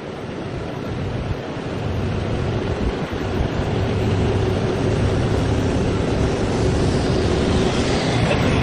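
A heavy vehicle's engine running and growing louder over the first few seconds, mixed with wind buffeting the microphone.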